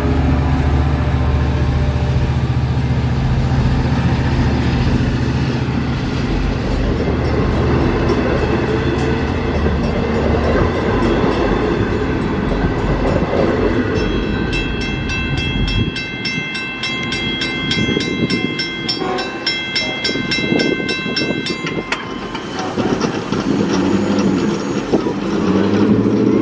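Diesel train rumbling along the track. From about halfway a railroad crossing warning bell rings rapidly for about eight seconds, and train noise rises again near the end.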